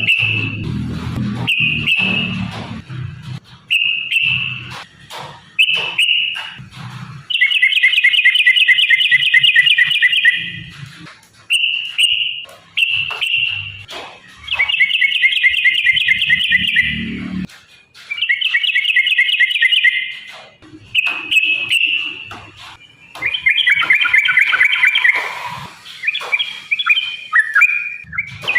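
Yellow-vented bulbul (trucukan) singing: short bubbly chirps at first, then long, rapid trilled phrases repeated several times.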